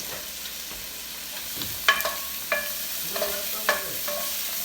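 Food sizzling in hot oil in a pan, with a metal utensil clinking against the pan a few times as it is stirred, the loudest clink about two seconds in.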